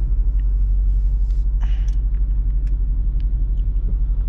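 Jeep Grand Cherokee SRT's 6.4-litre HEMI V8 with its mid muffler deleted, cruising: a steady low exhaust drone heard inside the cabin, with a few faint clicks over it.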